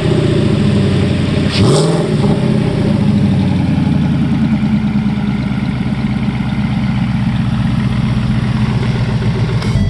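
Ford 5.0L Coyote DOHC V8 from a 2018 Mustang GT idling steadily, with one quick blip of the throttle about one and a half seconds in that rises and drops back to idle.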